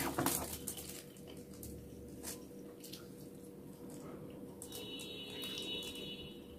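Close-up eating sounds: wet chewing and fingers picking through rice and food on a foil-lined table, with a short rustle right at the start and scattered small clicks and squishes.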